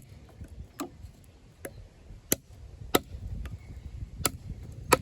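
Off-Grid Caiman XXL, a 7-inch D2 steel bowie knife, chopping into a wooden log. About six sharp strikes come at an uneven pace of roughly one a second.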